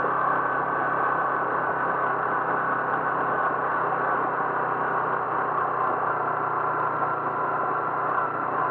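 A vehicle's engine running with a steady, even drone and no changes in speed.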